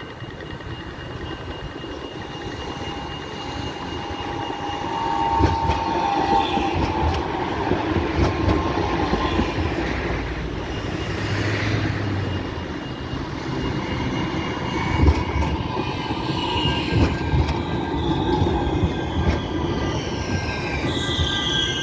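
A tram running past on its rails, the sound building from about four seconds in, with a few knocks from the wheels and steady high tones; near the end, high tones slide up and down in pitch.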